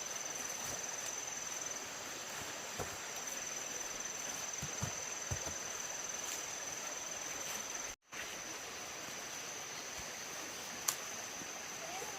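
Insects trilling in one steady high-pitched note over faint outdoor background noise, with a few soft knocks. The sound drops out for an instant about two-thirds of the way through.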